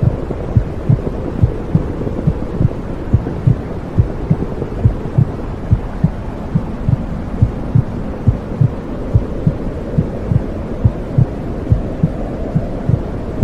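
Womb sound: a heartbeat thumping in a steady, even rhythm, a few beats a second, over a continuous dull whooshing rumble.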